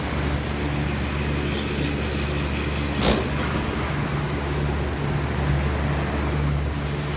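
Air-conditioner outdoor condensing unit running steadily in cooling mode, a constant low hum of compressor and fan. A single sharp knock about three seconds in.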